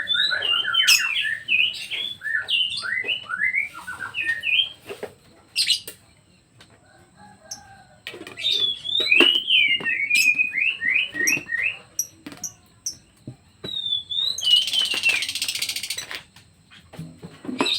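Songbird singing: rapid strings of short, high whistled notes in two long phrases with a pause between, and a brief rustle of noise near the end.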